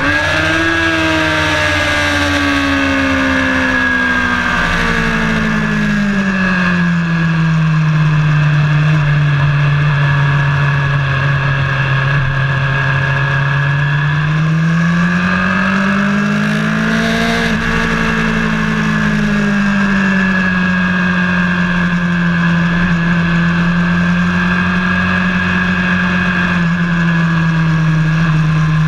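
A vehicle's engine heard onboard while lapping a track. Its note falls over the first few seconds and holds steady, climbs again about halfway through, then eases back and holds, with a steady high whine and rushing noise over it.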